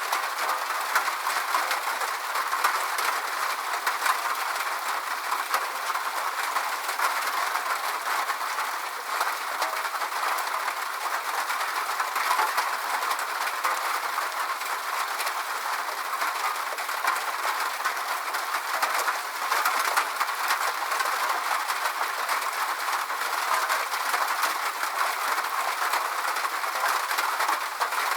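Steady rain: an even hiss of many drops with fine ticks scattered through it, and no low rumble or thunder.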